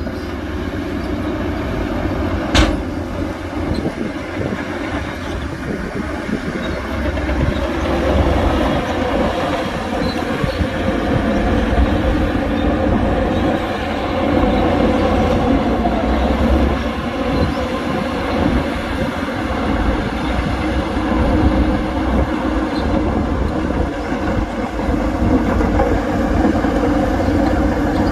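Heavy diesel earthmoving machinery running steadily under load, the engine note swelling and easing, with one sharp clank about two and a half seconds in.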